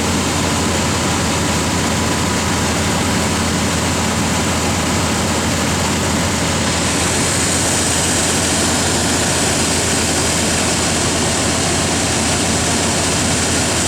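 Chevrolet 350 small-block V8 in an old Chevrolet pickup idling steadily, newly revived after years unstarted and running smoothly.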